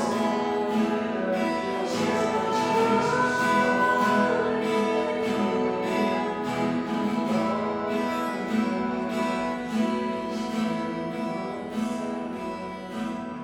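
Acoustic guitar strumming chords as worship music, slowly getting quieter toward the end.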